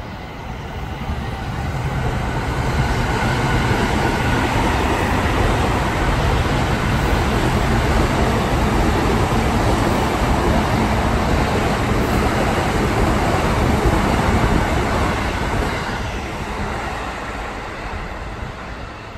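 Electric commuter train running on the tracks close below, a steady rush of wheels on rails. It builds over the first couple of seconds, holds, and fades away over the last few seconds.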